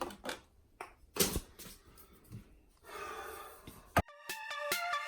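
Scattered light clicks and knocks, with a soft hiss about three seconds in. About four seconds in comes a sharp click, then electronic music with a steady beat begins.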